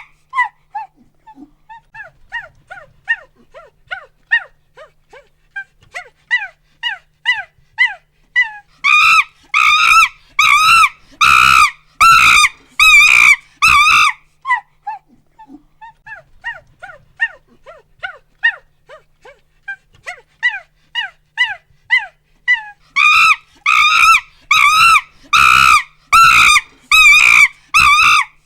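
Monkey hooting and screaming: a run of short hoots that quicken and climb in pitch builds into loud, rhythmic screams, about five seconds long. The pattern happens twice.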